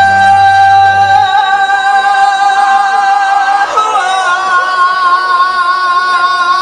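A solo singer belting one long sustained note with vibrato over a backing track. The bass of the backing drops out about a second in, and a little past halfway the voice slides up to a higher note and holds it.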